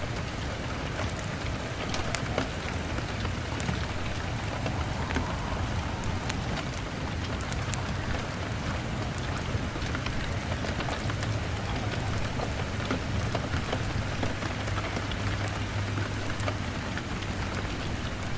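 Steady rain pattering on a window, with scattered sharp crackles from a wood fire and a low, steady rumble underneath.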